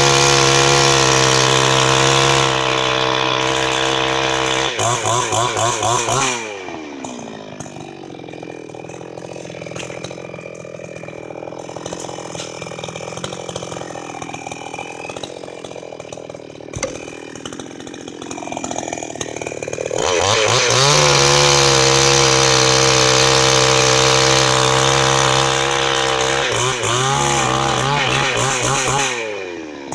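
Chinese-made gasoline chainsaw running at high revs, dropping back to a lower, uneven idle about six seconds in, then revving up again at about twenty seconds and holding high revs until it falls off near the end.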